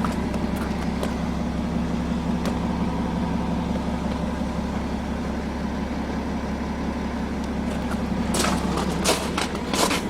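BMW X6 xDrive40d's 3.0-litre twin-turbo diesel straight-six idling steadily, with a few sharp clicks near the end.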